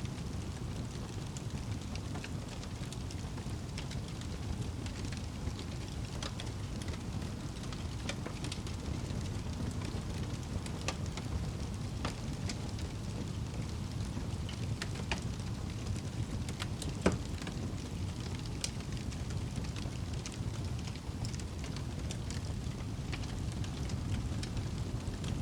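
Wood fire burning in a fireplace: a steady low rumble of the flames with scattered crackles and pops, one sharper pop about two-thirds of the way through.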